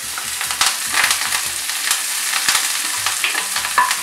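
Chopped onions and green chillies frying in hot oil in a non-stick kadai, a steady sizzle broken by scattered sharp clicks and scrapes as a wooden spatula stirs them.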